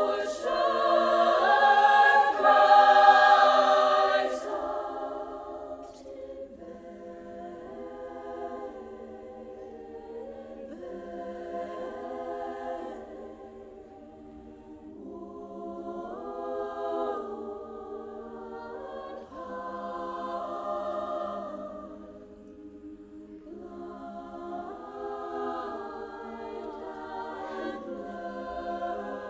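A choir singing a cappella, holding layered chords that change every second or two, loudest in the first few seconds and then softer.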